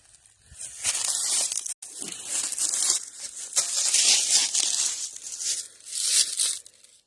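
Footsteps crunching and rustling through dry fallen leaves on the woodland floor, coming in several uneven surges.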